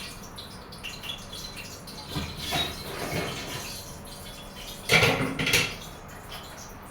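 Cooking utensils clinking and knocking against cookware while fried chicken is handled, with two louder clatters about five seconds in.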